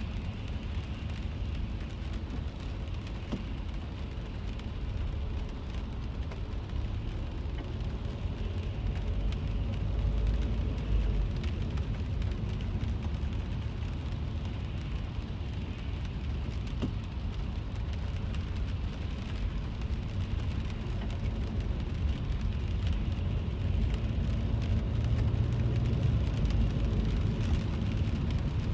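Steady rain on a car, heard from inside the cabin, over the low rumble of the car driving in traffic.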